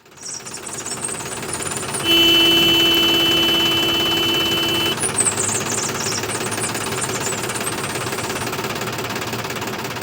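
Steady rattling engine-like running, as from a small tractor motor. About two seconds in, a steady horn-like tone joins it for about three seconds and is the loudest sound.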